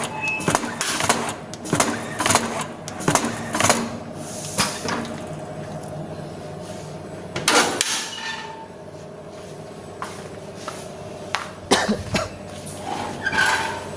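Screen printing machine being worked by hand: sharp clacks and knocks, about two a second for the first few seconds, then a few scattered louder knocks over a steady hum.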